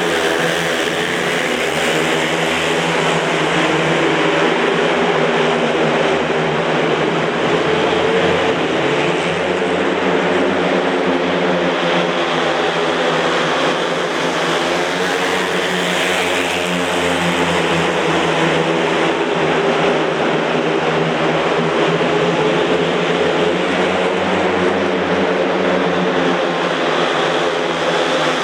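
Speedway motorcycles racing: several 500 cc single-cylinder methanol engines running hard together, their pitch rising and falling as the riders open and shut the throttle through the laps.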